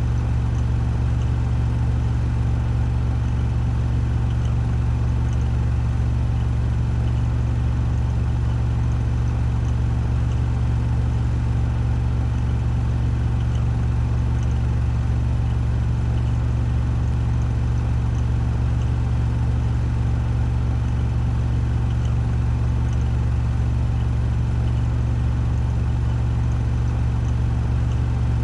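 Washing machine spinning at 1400 rpm on its spin cycle: a steady, unchanging low hum with a fainter whir above it.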